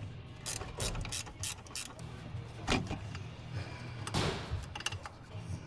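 Scattered clicks and knocks of plastic coolant-system parts being handled and unclipped, with a longer scrape a little past four seconds in.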